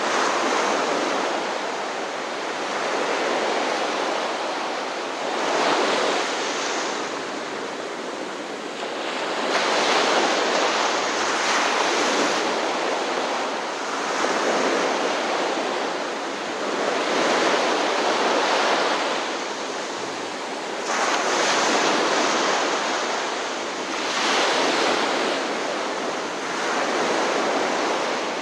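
Ocean surf: waves breaking and washing ashore in a steady rush that swells and ebbs every three to four seconds.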